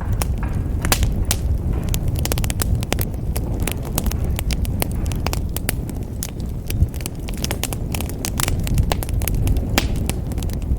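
Wood fire in a fireplace crackling, with many quick, irregular pops and snaps over a steady low rumble of the flames.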